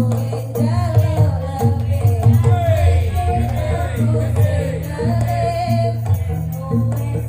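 Live gajah-gajahan folk band music: a singer's wavering melody over sustained low notes and a steady percussion beat.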